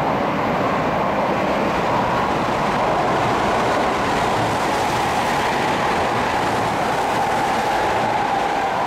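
Electric commuter train passing through the station at high speed without stopping: a steady rush of wheels on rail with a droning hum that drops slightly in pitch partway through.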